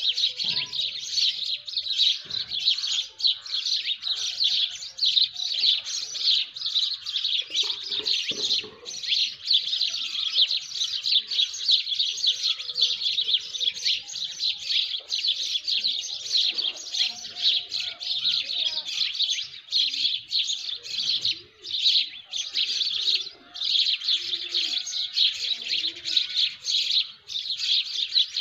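A dawn chorus: many small birds chirping rapidly and continuously, their high calls densely overlapping, with a few lower calls now and then.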